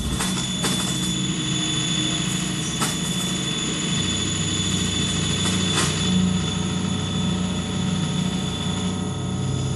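Steady droning noise with a low hum and a thin, constant high whine, broken by a few sharp clicks: two just after the start, one about three seconds in and one near six seconds.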